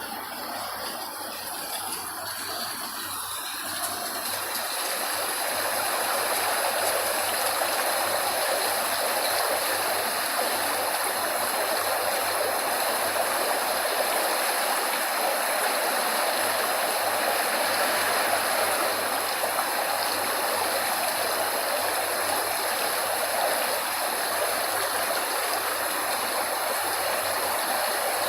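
Steady rushing water, fading in over the first few seconds and then holding even.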